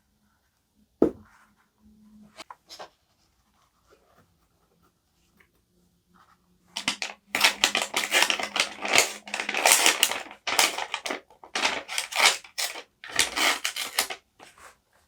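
Paper being worked for collage journaling: a single knock on the desk about a second in, a few small ticks, then from about seven seconds in a long run of loud, quick, crackly paper strokes, like paper being crumpled, torn or cut.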